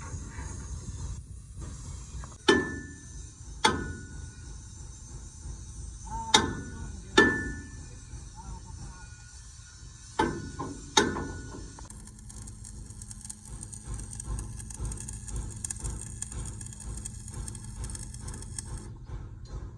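Hammer blows on steel during a truck front-axle repair: six sharp strikes, roughly in pairs, each with a short metallic ring. About two-thirds of the way through, they give way to a steadier mechanical noise with a low hum.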